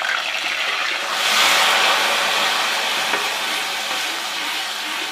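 Onions frying in hot ghee, sizzling. About a second in, the sizzle surges loudly as ginger-garlic paste hits the fat, then slowly eases off.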